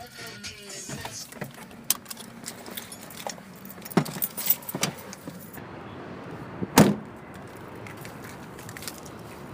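Keys jangling, with small clicks and knocks, then one loud thud about seven seconds in.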